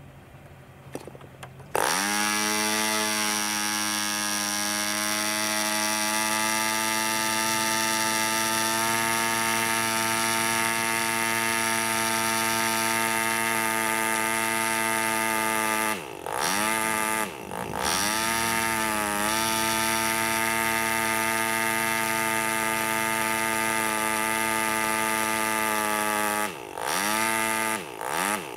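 PAW 15 BR 2.49cc model diesel engine, slightly over-propped with a 10x6 propeller, catches about two seconds in and runs at a steady high speed. Past the middle its speed sags and picks up again a few times, and near the end it falters repeatedly.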